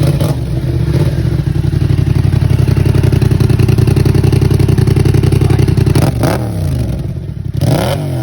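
Yamaha MT-07's parallel-twin engine idling through a cheap aftermarket exhaust with its baffle fitted, then blipped twice near the end, the pitch rising and falling each time.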